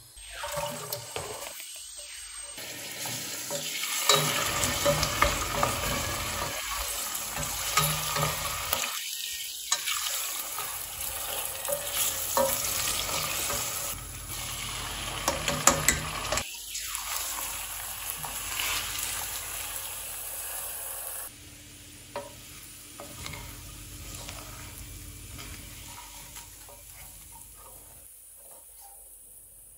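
Food sizzling in a hot frying pan while it is stirred, with scattered clicks and scrapes of a utensil against the pan. The sound is spliced from several short clips, so it breaks off and restarts a few times.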